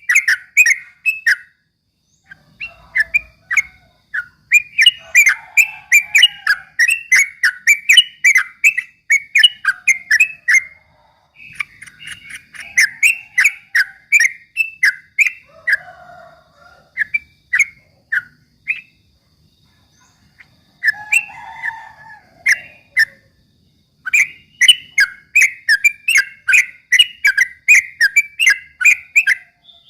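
Yellow-vented bulbul (trucukan) singing in its rapid 'ropel' style: long runs of quick, loud chattering notes, several a second, broken by short pauses of a second or two.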